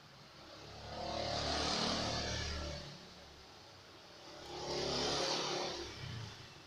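Two vehicles passing by one after the other, each swelling up and fading away over about two seconds.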